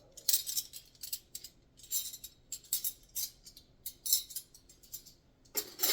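Metal cutlery clinking and clattering as pieces are lifted out of the dishwasher and put away: a quick, uneven series of light clinks, with a louder clatter near the end.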